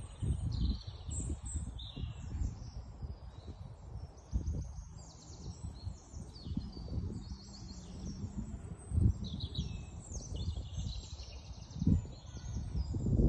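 Songbirds chirping and singing in quick, high, repeated notes. Beneath them runs a low rumbling noise that swells sharply twice in the later part.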